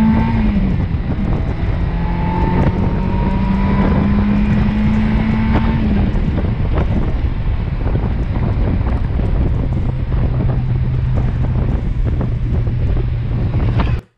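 Ford 2.5 L four-cylinder with stage 1 cams, swapped into a Mazda Miata, pulling under throttle with the windows of an open convertible letting in heavy wind noise. Its note climbs steadily in pitch, falls sharply about half a second in and again around six seconds, then holds at a lower, steady pitch.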